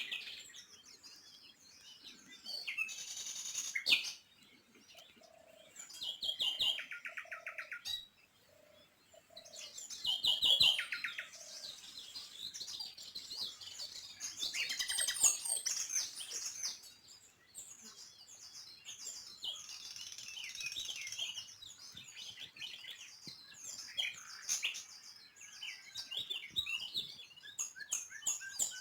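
Several small birds chirping and trilling, with quick high chirps overlapping and bursts of rapid, evenly repeated trill notes.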